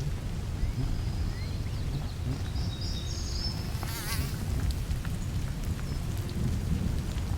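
Outdoor ambience: a steady low rumble, with faint high bird chirps in the first few seconds and a short wavering buzz about four seconds in.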